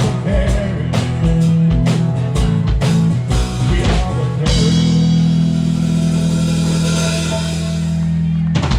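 Live band of guitar, bass, drums and percussion playing the close of a song: a few bars over a steady drum beat, then a final chord held with a ringing cymbal crash for about four seconds that cuts off near the end.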